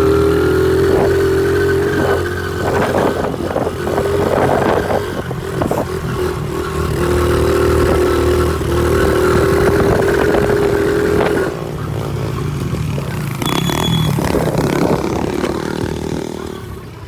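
Pit bike engine riding along with the throttle opening and closing, dropping in level partway through and fading out near the end as the bike dies, starved of fuel: it has run out of gas with the fuel tap on reserve.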